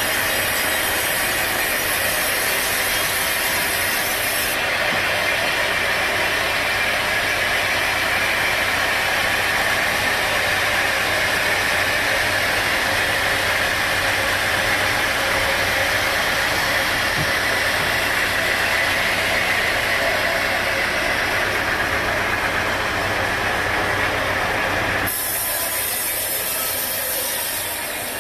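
Sawmill machinery running steadily, an engine-driven saw with a continuous hissing noise. The sound changes abruptly about 25 seconds in.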